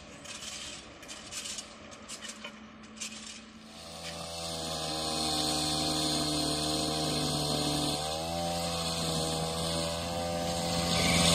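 Tapping and scraping from track maintenance work on the rails and ballast, then, from about four seconds in, a steady droning sound with several tones that grows louder as an EF510 electric locomotive approaches at the head of a container freight train.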